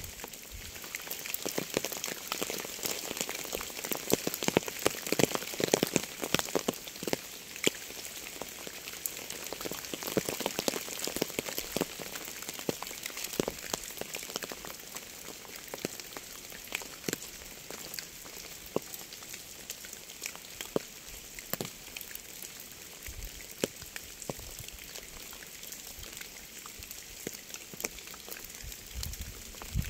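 Rain falling on a surface: a steady hiss with many separate drop hits landing irregularly. The hits are heaviest and most frequent from about four seconds in to about twelve.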